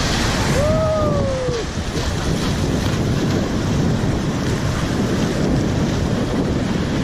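Sea surf breaking on a beach, with wind buffeting the microphone. About half a second in, a person's short rising-then-falling shout or call cuts through briefly.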